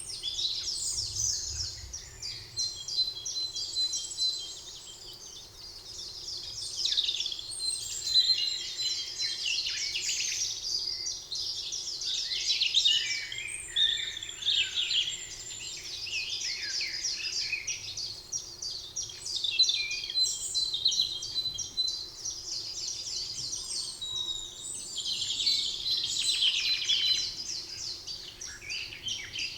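Several songbirds singing at once, a dense chorus of rapid trills, chirps and short whistled notes.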